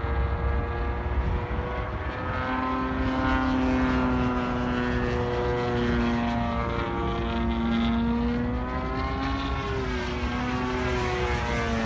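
DLE-55 single-cylinder two-stroke gasoline engine of an RC model airplane in flight, a steady propeller drone whose pitch rises and falls as the plane passes by, dropping near the end.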